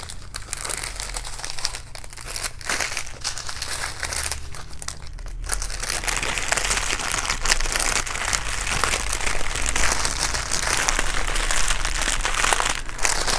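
Small plastic bags of diamond-painting drills being handled and crinkling, a continuous dense crackle of plastic that gets a little louder in the second half.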